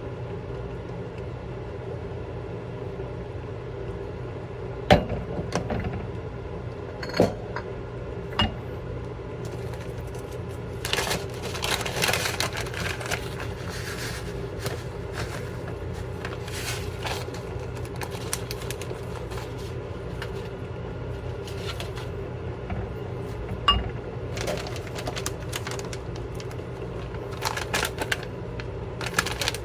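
A steady hum runs throughout, with a scattering of sharp clicks and knocks and short bursts of rustling or scraping, like things being handled at a table.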